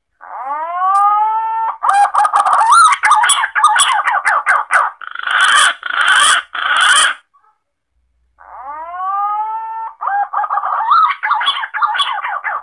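Green pigeon (punai) calls of the kind used as a hunting lure. Each sequence opens with a long whistled note that bends upward and then levels off, followed by a fast run of warbling, chattering notes. The run breaks off about seven seconds in, and after a short pause the same sequence starts again.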